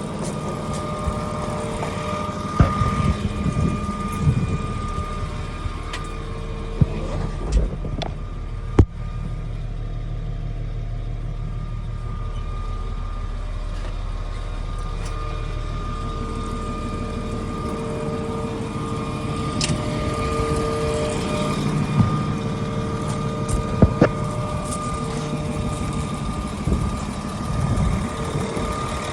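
Six-cylinder diesel engine of a Terex TA400 off-highway dump truck running steadily, with a few sharp knocks and clunks a few times along the way.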